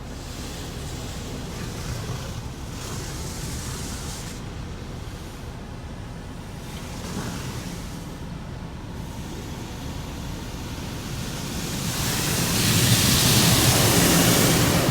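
Automatic car wash heard from inside the car: a steady hiss of water spray and equipment working over the car's body, swelling much louder about twelve seconds in.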